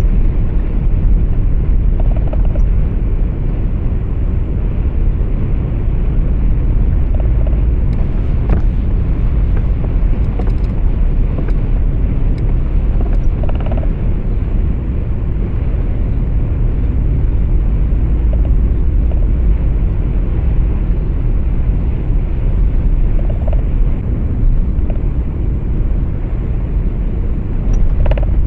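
Truck engine and road noise heard inside the cab: a steady deep rumble with a few faint ticks along the way.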